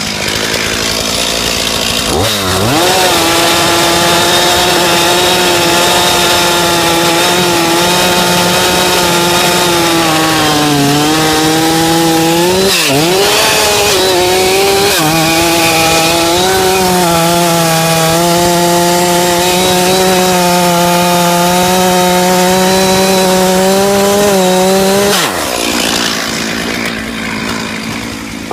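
Chainsaw idling, then opened up to full throttle about two seconds in and held there cutting into an ash tree. The engine pitch dips briefly twice partway through, and near the end the saw drops back to idle.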